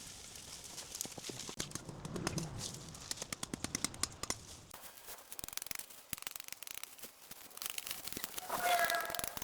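Dry vines and leaves crackling and snapping in a quick run of sharp clicks, as overgrown vegetation is torn and cut. A brief pitched sound follows near the end.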